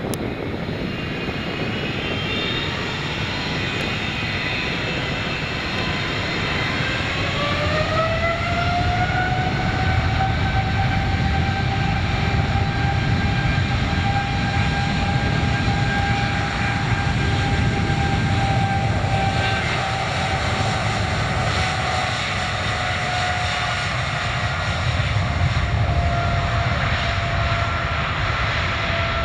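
Jet engines of a Boeing 777-300ER spooling up, their whine rising in pitch over a few seconds and then holding steady at high thrust over a constant rush. The whine drops slightly in pitch near the end.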